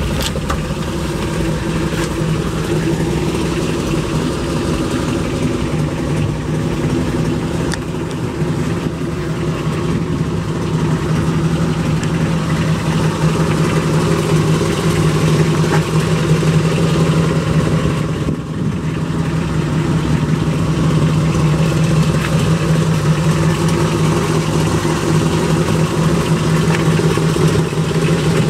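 A mildly built 283 small-block V8 in a 1962 Chevy Impala idling steadily, a little louder in the second half.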